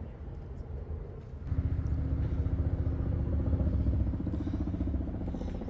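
Motor vehicle engine running close by, a low rumble with a steady hum that grows suddenly louder about a second and a half in.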